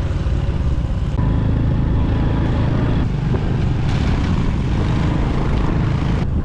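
Motorbike running steadily on the move, with a dense, even low rumble.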